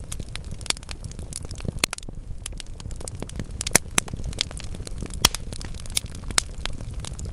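Wood logs burning in a fireplace: irregular crackles and sharp pops over a low, steady rumble of the flames, with a few louder pops, two of them about four and five seconds in.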